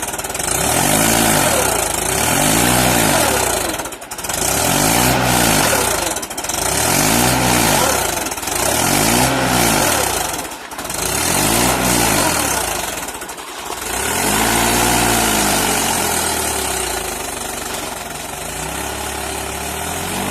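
Tractor engine revved up and let fall again about every two seconds, over and over, as the tractor strains to pull itself out of the mud. Near the end the revving stops and the engine runs more steadily.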